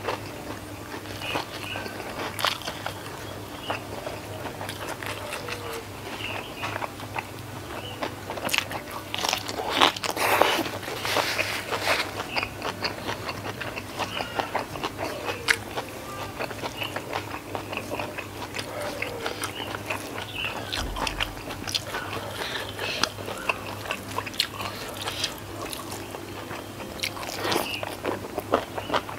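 Close-miked eating: chewing and crunching of shrimp and rice with sardine sambal, eaten by hand, with many small wet mouth clicks. The loudest bites come around ten seconds in.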